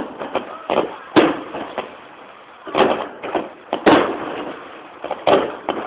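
Aerial firework shells bursting: a string of sharp bangs at irregular intervals, each with a short echoing tail, the loudest about a second in and about four seconds in.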